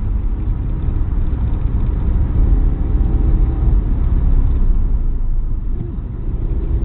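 Opel Corsa's engine and road noise heard from inside the cabin while it is driven at speed on a race track, a steady loud rumble.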